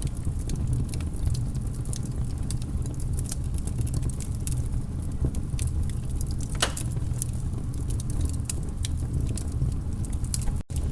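Wood fire in a fireplace crackling, with many small irregular pops over a steady low rumble of the flames. The sound cuts out for an instant near the end.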